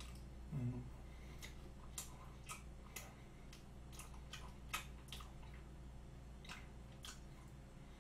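Faint, wet mouth clicks of a man chewing a mouthful of soft chocolate cream cake, irregular at roughly two a second, over a low steady hum.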